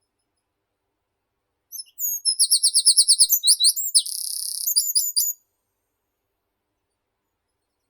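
A songbird sings one phrase of about three and a half seconds: a fast run of repeated high falling notes, then a short buzzy stretch, ending in a few quick notes.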